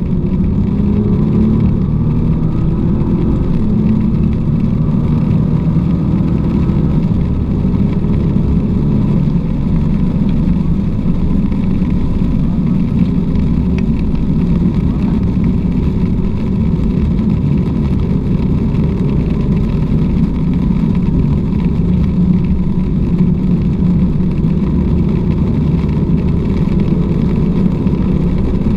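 Car engine running with a continuous low rumble of road and tyre noise, its pitch shifting a little in the first few seconds and otherwise steady.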